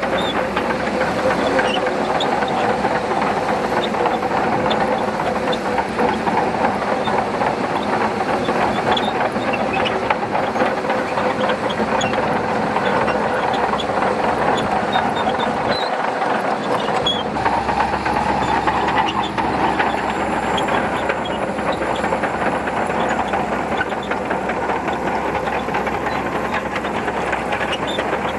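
Shantui DH17C2 crawler bulldozer working, its diesel engine running steadily under a constant clatter of steel tracks.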